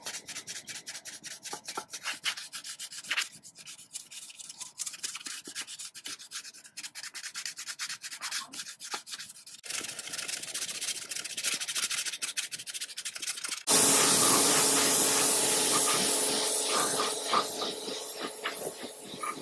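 Rapid back-and-forth scrubbing strokes, abrasive on rusty metal, as in sanding or scouring rust off an old sewing machine part. About 14 s in they give way abruptly to a loud steady hiss that slowly fades.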